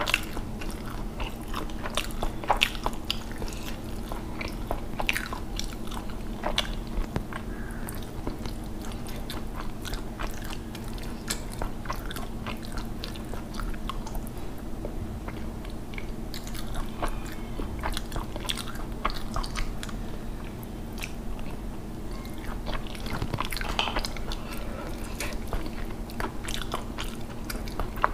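Close-miked mouth sounds of a person eating rice and fish-head curry by hand: chewing and wet lip smacks, heard as many small sharp clicks. A steady low hum runs underneath.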